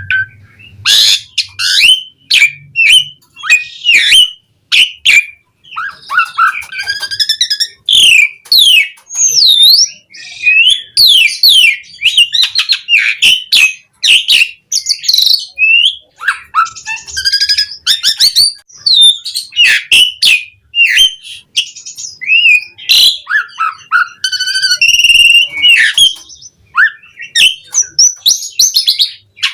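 Asian pied starling (jalak suren) singing vigorously: a long, varied run of whistled notes, chattering trills, pitch glides and sharp clicks with short pauses between phrases.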